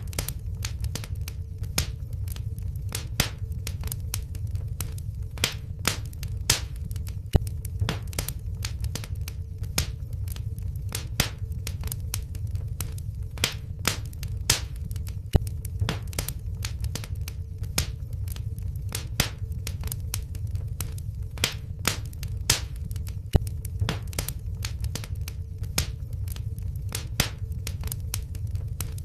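Wood fire in a fireplace crackling, with frequent irregular sharp pops over a steady low rumble of the flames. A faint steady hum runs underneath.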